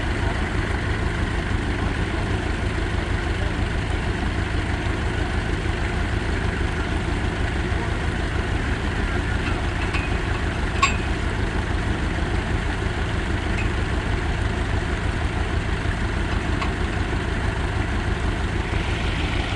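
An engine running steadily at idle, a low even rumble with a fast regular pulse. A single sharp click sounds about eleven seconds in.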